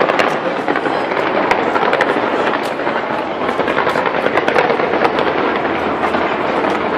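Fireworks display going off in a dense, continuous barrage: many sharp pops and cracks over a constant crackling rumble.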